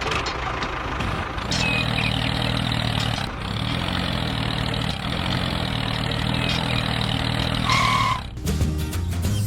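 Small motor or engine sound running steadily, with a short high beep about eight seconds in.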